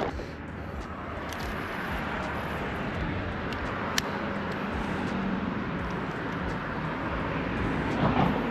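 Steady low outdoor rumble with a faint hum, and one sharp click about four seconds in.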